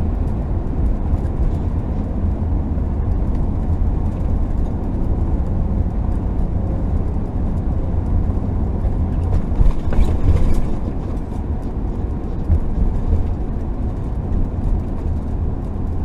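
Steady engine and tyre rumble of an RV driving on the road, with a brief louder swell about ten seconds in.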